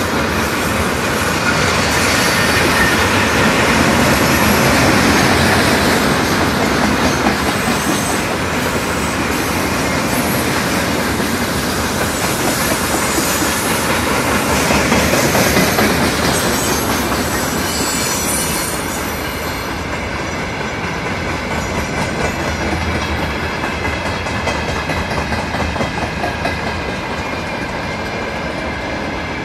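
Freight train wagons, tank cars followed by open wagons, rolling past close by, their wheels running steadily over the rails. The sound turns a little quieter and duller about two-thirds of the way through.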